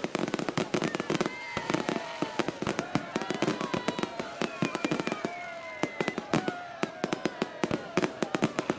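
Fireworks crackling: a dense, unbroken run of sharp pops and cracks, many a second, with a few faint pitched tones gliding among them.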